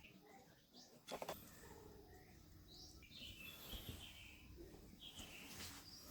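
Faint birds chirping in the background, with one sharp click about a second in.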